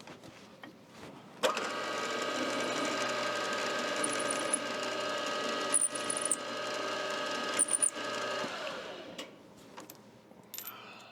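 A machine tool's electric motor switches on abruptly about a second and a half in, runs steadily with a whine for about seven seconds, then winds down. Three brief high squeals come over it, the last near the end of the run.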